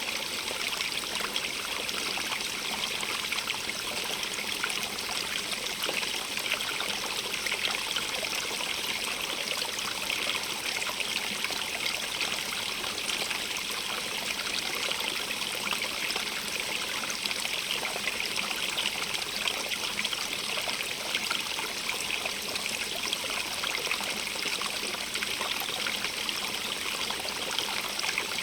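Running water from a stream, a steady splashing and trickling that never lets up, brightest in its high hiss.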